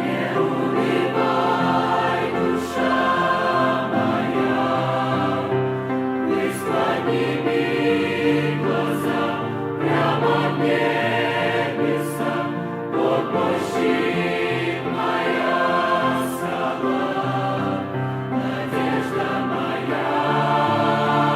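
Church choir singing a hymn: many voices in harmony, holding long chords.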